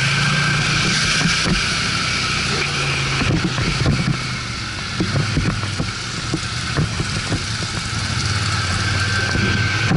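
ATV (quad bike) engine running while riding, its note easing off about a third of the way in and coming back strong near the end, with frequent knocks and jolts over rough ground.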